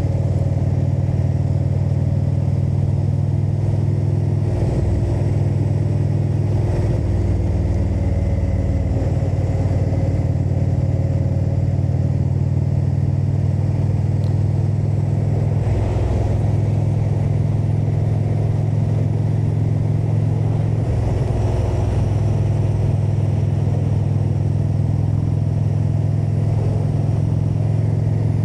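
Indian V-twin motorcycle engine running on the road under way, a steady low exhaust note that briefly dips and changes about four times, as with throttle changes or gear shifts.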